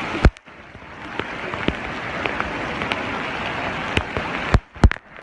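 Heavy rain falling, a steady hiss. It cuts out briefly with sharp clicks twice, just after the start and again near the end.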